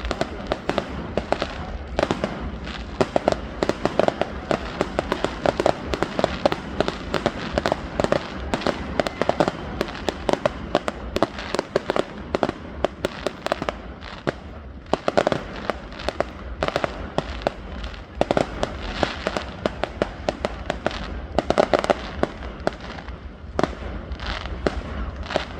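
Fireworks going off in quick succession: a dense, continuous run of bangs and crackles, with frequent louder reports standing out.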